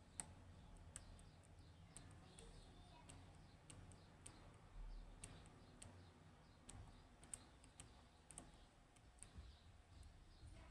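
Faint, irregular small clicks and ticks from a lock pick working the pins of a high-pin-count Yanai R 2200M lock under tension, as a binding pin is set.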